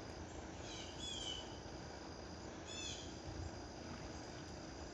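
A songbird's short, falling chirps, one cluster about a second in and another near three seconds, over an insect's steady high-pitched trill and low background noise.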